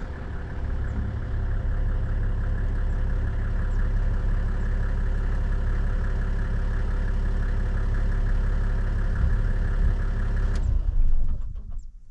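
Vehicle engine idling steadily, then switched off near the end, after which it falls quiet.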